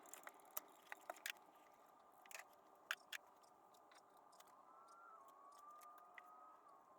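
Near silence broken by about ten faint, sharp clicks and taps, most of them in the first half. A faint, wavering high tone comes in past the middle and fades near the end.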